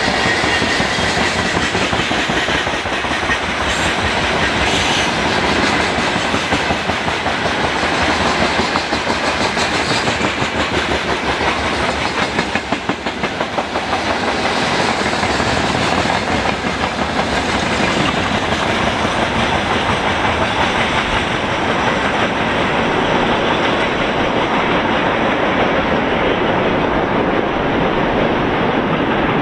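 Freight train wagons rolling past, a loud, steady clatter of wheels on the rails.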